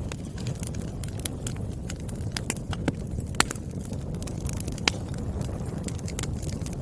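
Wood fire crackling: a steady low rumble of burning logs with sharp, irregular pops of firewood, the loudest about three and a half seconds in.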